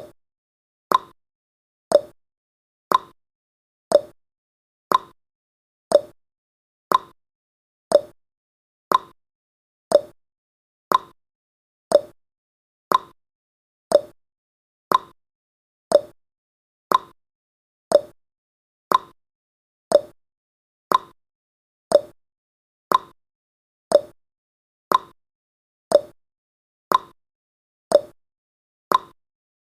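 Countdown timer's clock-tick sound effect: one short, sharp tick every second, perfectly regular.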